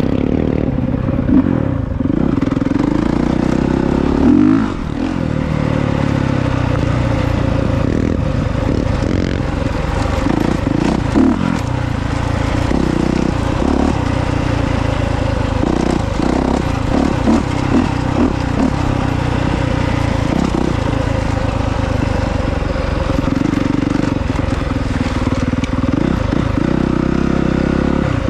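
Honda CRF450R's single-cylinder four-stroke engine running hard off-road, its pitch rising and falling as the throttle opens and closes.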